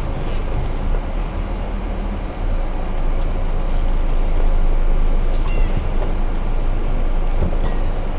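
Heavy truck's diesel engine running steadily, heard from inside the cab with a constant rumble and cab noise, and a few faint ticks.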